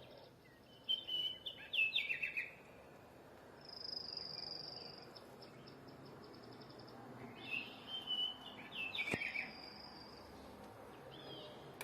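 Small birds singing outdoors: two bursts of quick falling chirps, the first about a second in and the second around eight seconds, with a high thin trill near four seconds.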